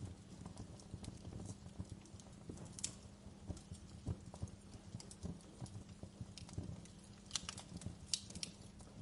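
Wood fire crackling in a fireplace: irregular sharp pops and snaps from the burning logs over a low steady rumble, with a cluster of louder cracks near the end.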